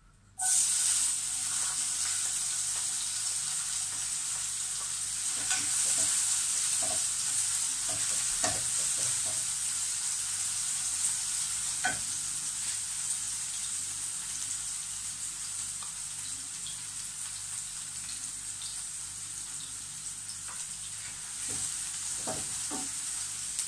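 Sliced onion and garlic dropped into hot oil in a frying pan: a sizzle starts suddenly about half a second in and carries on steadily while a wooden spatula stirs them, with occasional light taps against the pan.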